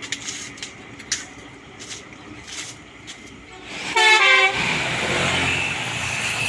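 A large road vehicle, a bus or a loaded truck, sounds its horn in a short blast about four seconds in and then passes close by with loud engine and tyre noise.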